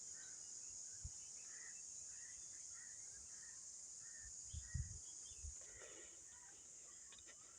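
Faint outdoor ambience: a steady high-pitched insect drone, with scattered short bird chirps and a few soft low thuds around the middle.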